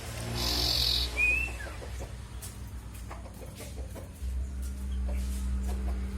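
A small songbird gives one short rising whistle about a second in, with a brief falling note just after, over chickens clucking in the background and scattered light clicks.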